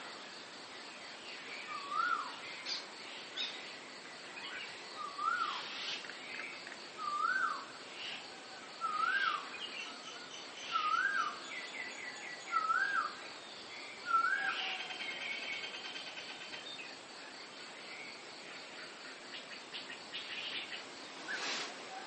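Birds singing in the morning treetops. One bird repeats the same short whistled note that rises and drops, about every two seconds, eight times in all, over fainter, higher chirps from other birds. That bird stops about two-thirds of the way through, and a brief crackling rustle comes near the end.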